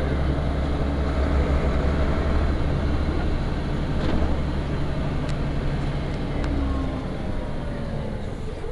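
Interior sound of a Van Hool A320 city bus under way: the diesel engine drones steadily, with a few sharp clicks or rattles. After about seven seconds the engine note eases off and a thin whine falls in pitch, as the bus slows.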